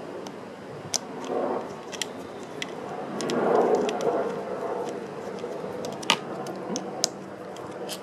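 Small sharp clicks and scraping of a Torx driver and screw being worked on the air horn of a Rochester Quadrajet carburetor while a screw is started into its thread. A few clicks stand out, with a longer scraping rustle in the middle that is the loudest part.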